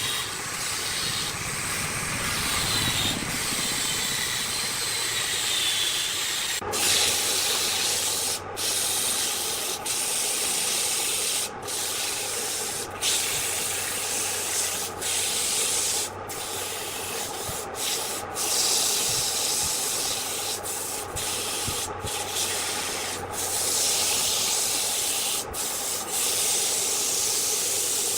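Wood lathe running with a tool rubbing against the spinning workpiece: a steady hiss over a low hum. The sound changes abruptly about seven seconds in, and after that it is broken by many brief gaps.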